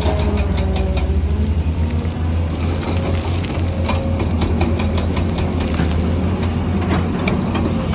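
Heavy diesel engine of a construction machine, such as an excavator, running steadily with a deep rumble, with scattered light clicks and clanks over it.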